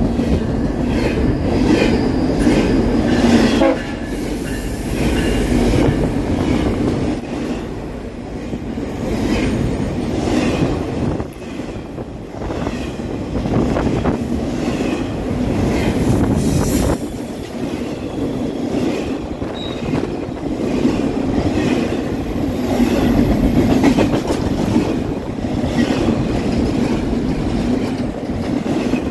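Two trains passing at once on side-by-side tracks: a fast intermodal freight of double-stack container cars and slow GO Transit bilevel passenger coaches. A continuous rumble and rattle with clickety-clack of wheels over rail joints, and a thin high wheel squeal through the first several seconds and again later.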